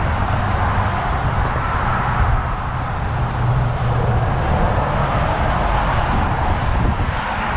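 A vehicle running steadily: a low engine drone under a broad rushing noise, with no sudden events.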